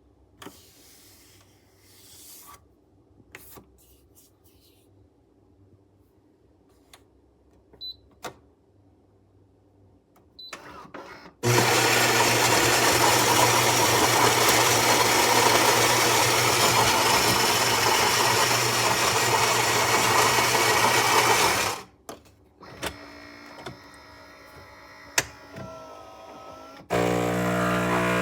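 Philips 3200 fully automatic espresso machine going through a brew cycle. After a few faint clicks, its built-in ceramic grinder runs loudly for about ten seconds and stops abruptly. More clicks and whirs follow, and near the end a steady buzzing hum starts, typical of the pump beginning to push water.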